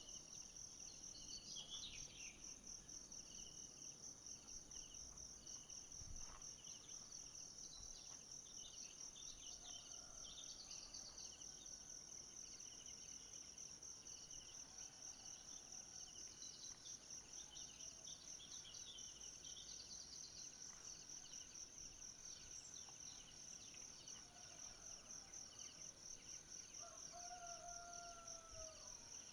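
Forest ambience: a steady, high, finely pulsing insect chorus with scattered bird chirps over it, and a few lower gliding calls near the end.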